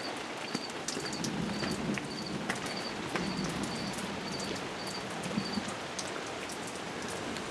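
Steady heavy rain, a downpour, with many sharp close drips and splashes.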